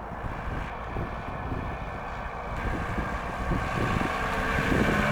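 Mercedes-Benz 220D's four-cylinder diesel engine running with the car on the move, the sound growing steadily louder toward the end, with wind noise on the microphone.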